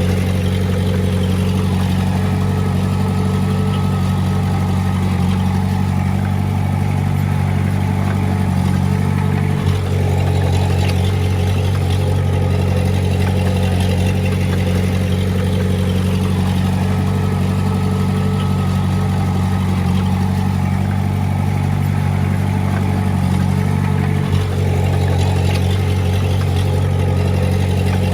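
Diesel engine of heavy earthmoving equipment running steadily, with a brief dip in the sound twice, about ten and twenty-four seconds in.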